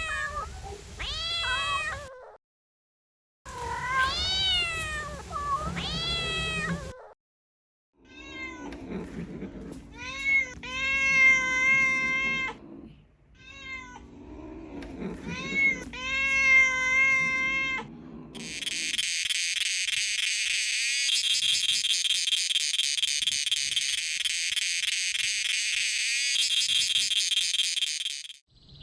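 Kittens meowing in a series of short, arching calls, broken by two brief dead-silent gaps, then longer held meows. About two-thirds of the way through, a continuous high, rapidly pulsing trill takes over for roughly ten seconds.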